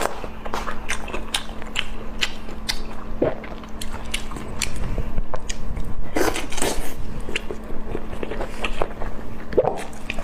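A person biting and chewing food close to the microphone: irregular crunchy clicks and wet mouth sounds, over a steady low hum.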